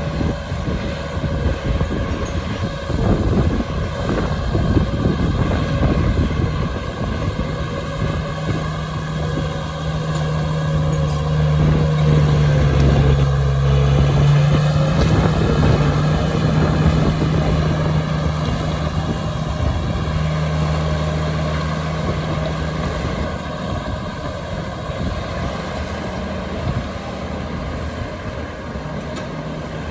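Heavy diesel engine of earthmoving machinery working steadily under a dense low rumble, louder through the middle, with its pitch shifting briefly about halfway through.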